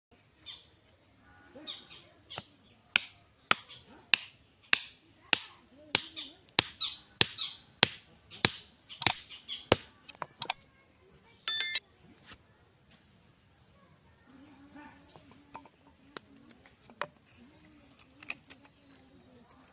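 A steady series of sharp knocks, about three every two seconds, lasting roughly eight seconds, followed by a brief high squeak. A faint high hiss runs underneath throughout.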